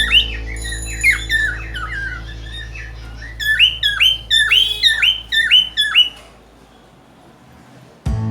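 Cockatiel giving runs of short, sharp chirping calls that sweep up and down in pitch: a few at the start, a couple about a second in, and a quick run of about a dozen from about three and a half to six seconds in, then it stops.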